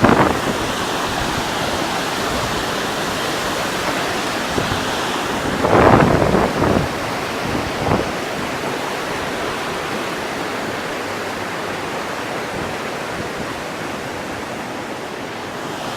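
Floodwater rushing in a steady, loud roar of noise, with a brief louder surge about six seconds in and another short one near eight seconds.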